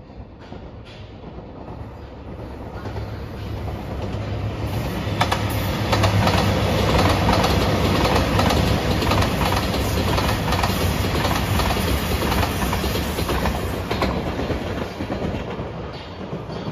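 JR Shikoku 2700 series diesel express train passing close by: its engines run with a low drone and the wheels click over rail joints. The sound builds, is loudest through the middle, and fades away near the end.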